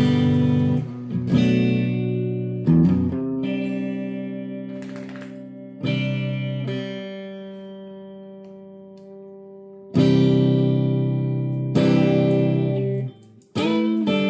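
Guitar chords on month-old, unwashed strings, struck one at a time and left to ring. Some chords come in quick succession; one is held and slowly fades for several seconds before the next.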